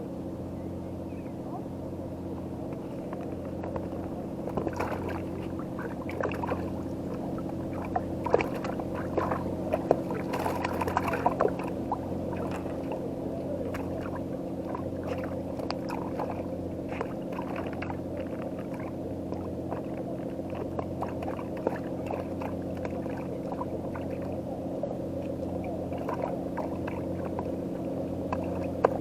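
A boat's engine running steadily at idle, a low even hum, with scattered light clicks and knocks, busiest in the first half.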